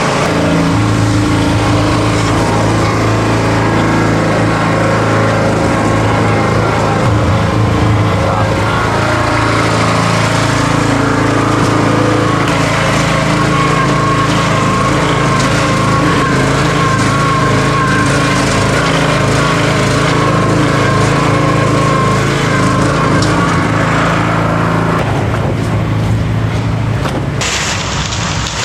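Small gasoline engine running steadily at a constant speed, the sound breaking off abruptly near the end.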